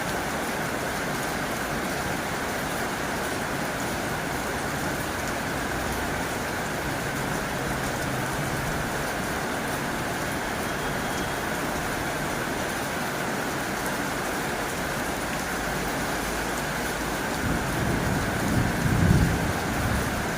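Heavy rain drumming steadily on a tin roof. Near the end a low rumble swells for a couple of seconds and fades.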